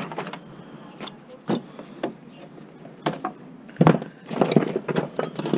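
Scrap being handled and sorted by hand: a few separate knocks and clanks, the loudest about halfway through, then a denser run of clattering near the end.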